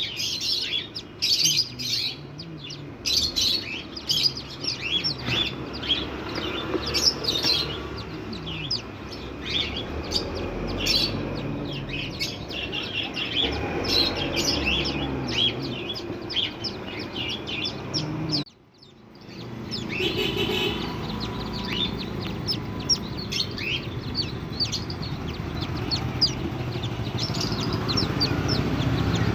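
A brood of desi ducklings peeping, many short high calls overlapping without pause. The calls break off briefly about two-thirds of the way in, then go on.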